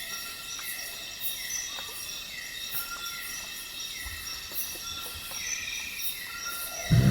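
Night rainforest insect chorus: steady layered high trills with evenly repeating high pulses and a short falling chirp repeating about every second. Right at the end, a loud low explosive grunt breaks in from an unidentified animal.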